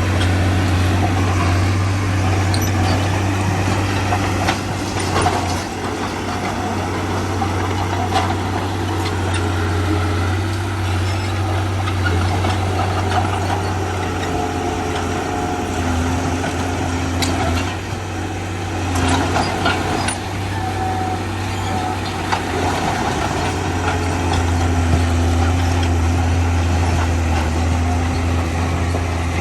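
Heavy diesel engine of earthmoving machinery running steadily, with its note shifting under load and a few sharp clanks along the way.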